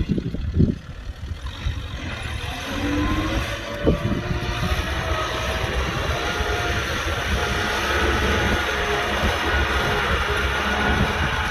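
Kubota M6040SU tractor's diesel engine running, with a few low knocks in the first second. The engine note then rises in pitch and grows louder over the next few seconds and holds steady.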